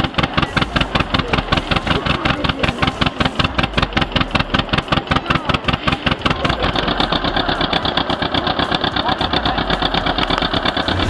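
Tractor engine running with an even, pulsing beat of several strokes a second, getting busier and louder about two-thirds of the way through.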